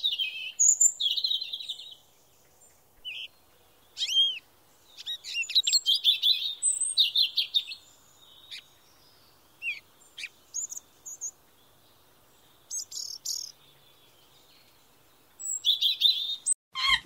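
Small bird chirping in short, high-pitched bursts, with pauses of a second or more between them.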